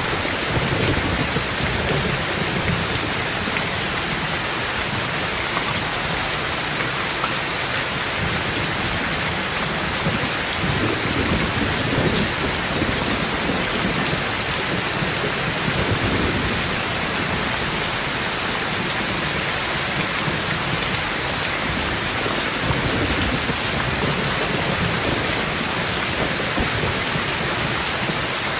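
Heavy rain falling steadily, with thunder rumbling low several times, the strongest rumble about halfway through.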